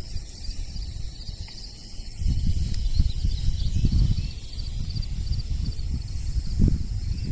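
Insects chirping in quick repeated pulses, with a steady thin high whine, under a louder uneven low rumble on the microphone.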